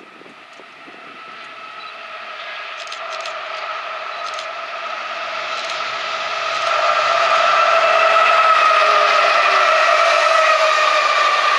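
Freight train approaching, growing louder over about seven seconds and then staying loud, with a steady high-pitched whine or squeal running through it that sags slightly in pitch near the end.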